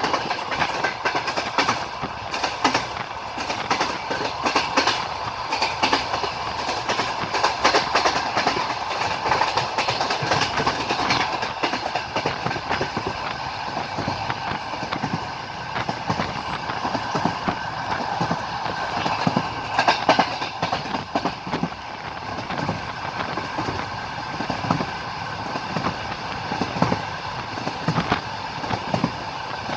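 A train running along the line, its wheels clicking over the rail joints over a steady rumbling rattle, with a sharper knock about twenty seconds in.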